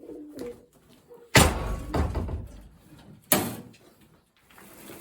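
Two sharp slams about two seconds apart, the first the louder with a low rumble after it.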